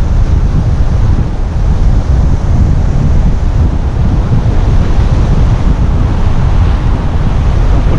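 Wind buffeting the microphone over the steady wash of Gulf surf breaking on the beach, a constant loud rumbling rush with no pauses.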